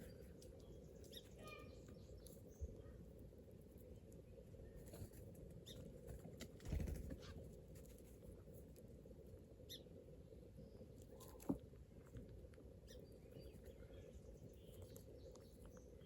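Faint scattered rustles and small ticks of squirrels foraging and feeding on the ground, with a dull thump about seven seconds in and a sharp click about two-thirds through.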